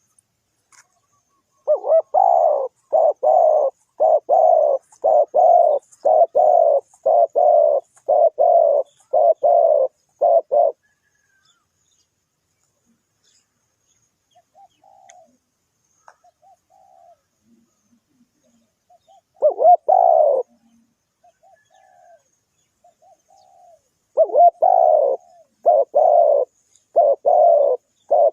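Spotted dove cooing: a rapid run of about a dozen short, evenly spaced coos, a pause with a few soft notes and one louder call, then another run of coos near the end.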